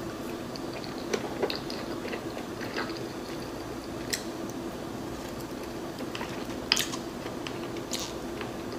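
Close-miked chewing of dim sum, a fried shrimp roll and then garlic noodles, with scattered sharp wet clicks and smacks from the mouth, about one every second or two.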